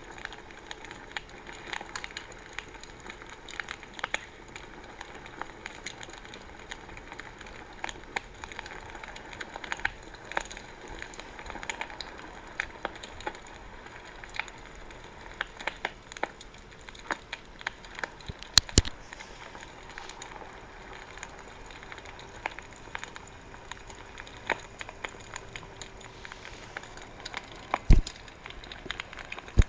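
Wood bonfire crackling: a steady scatter of small pops and snaps, with two louder sharp cracks, one about two-thirds of the way through and one near the end.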